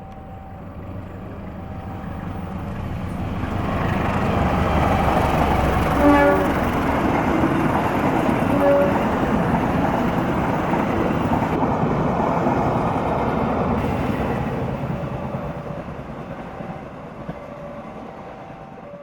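A train passing close by: rumble and wheel noise build up, stay loud through the middle and fade away near the end. Two short horn blasts sound, about six seconds in and again about nine seconds in.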